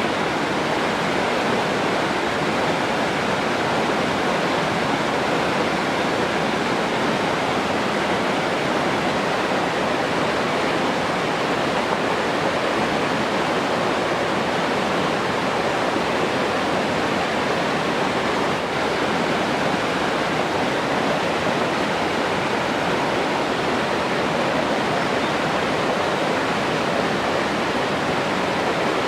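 Rushing water running steadily, an even unbroken sound that neither rises nor falls.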